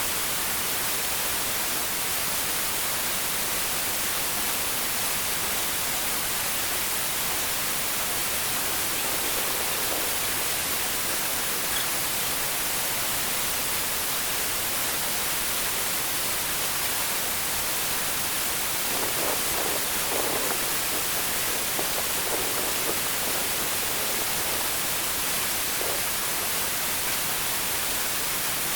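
Steady, even rush of falling water from heavy rain and a waterfall, with a few faint muffled knocks about two-thirds of the way through.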